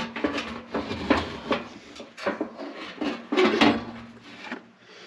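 Metal furnace parts clattering and scraping as a replacement blower motor is fitted into the fan housing: a run of irregular knocks and rubs, loudest about three and a half seconds in.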